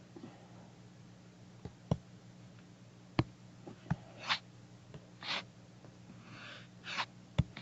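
Scattered sharp clicks and taps from toy train track pieces being handled, with a few short soft hissing sounds between them.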